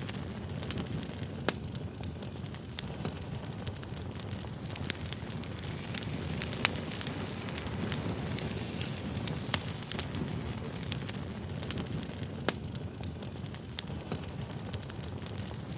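Burning firewood crackling, with irregular sharp pops and snaps over a steady low rumble of flame.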